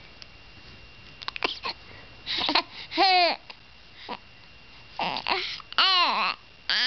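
Young baby cooing: three short, pitched coos, about three seconds in, around six seconds and at the end, each led in by breathy, effortful sounds, with a few small clicks before them.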